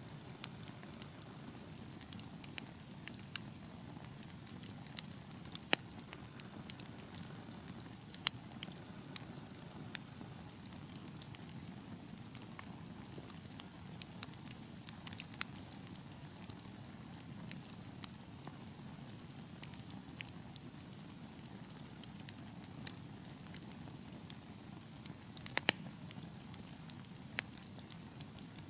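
Wood fire burning in a fireplace: a steady low rumble of flames with scattered sharp crackles and pops, two of them louder, about six seconds in and near the end.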